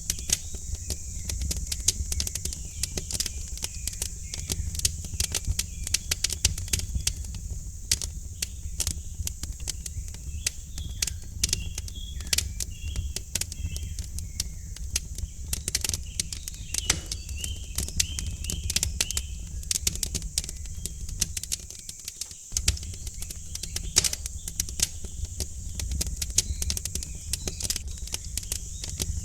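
Wood fire crackling in a fireplace, with a dense, irregular stream of pops and snaps over a steady low rumble and a high hiss. Small birds chirp faintly, mostly in the middle.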